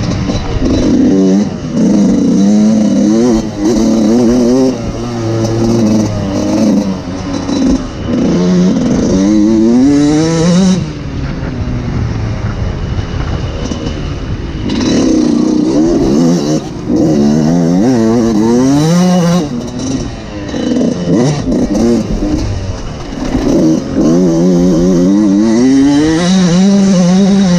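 Suzuki RM125 single-cylinder two-stroke motocross engine revving hard, its pitch climbing and dropping back again and again as it pulls through the gears. It eases off for a few seconds around the middle before pulling hard again.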